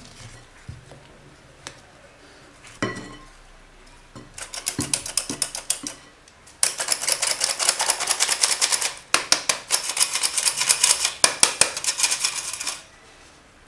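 A utensil beating cake batter in a bowl by hand, a fast run of clicking strokes against the bowl, a short burst and then a longer, louder one after a pause. A single knock comes a few seconds before the beating.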